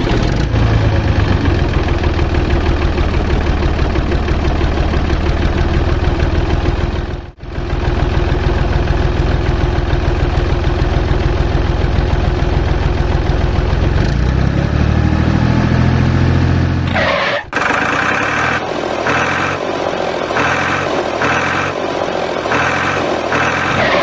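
Diesel tractor engine running steadily, cutting out for an instant about seven seconds in, then revving up with a rising pitch. About seventeen seconds in it gives way to a different, evenly pulsing sound.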